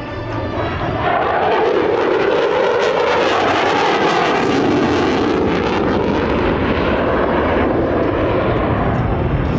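F-16 fighter jet's engine roaring during a display pass, swelling about a second in and staying loud, with a wavering pitch.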